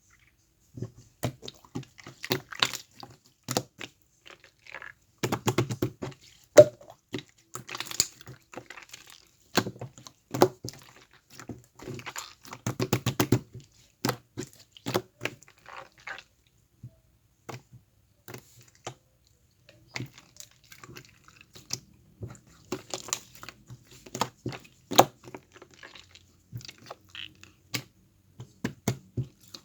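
Slime squished and pressed by hand, making quick clusters of sharp clicks and crackling pops.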